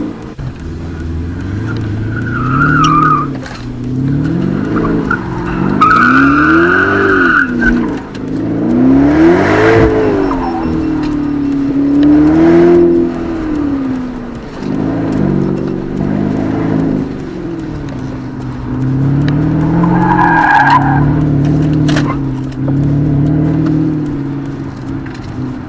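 Porsche Panamera engine heard from inside the cabin, revving up and dropping back over and over as it accelerates and brakes through an autocross course, with tyres squealing briefly in several of the turns.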